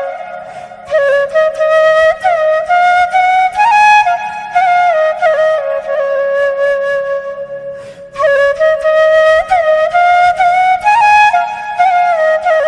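Background instrumental music: a single flute-like melody line with sliding ornaments over a low steady drone. The melody dips briefly about a second in and again near eight seconds.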